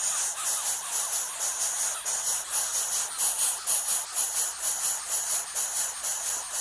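Insect chorus with a high, pulsing trill, about three pulses a second. Faint short chirps sound underneath.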